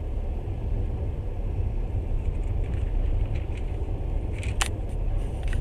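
Moving train heard from inside the carriage: a steady low rumble of wheels on rails, with a few light clicks and one sharp tick about four and a half seconds in.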